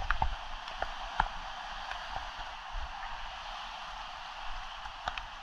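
Steady hiss of hurricane rain and wind, heard through a camera's waterproof case, with a few small sharp ticks of rain or debris striking it.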